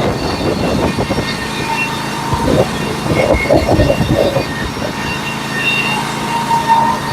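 Norwood HD36v2 portable sawmill's engine running steadily, with a cluster of knocks and rattles between about two and a half and four and a half seconds in.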